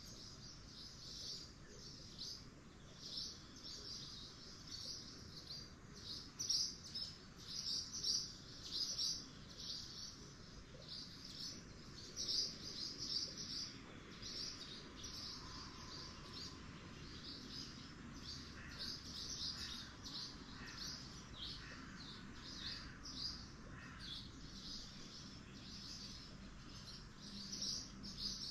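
Small birds chirping: short, high chirps repeating steadily, one or two a second.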